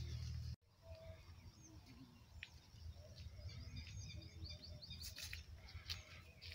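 Faint small birds chirping in many short, quick high calls, with a couple of sharp cracks near the end. A low rumble cuts off suddenly about half a second in.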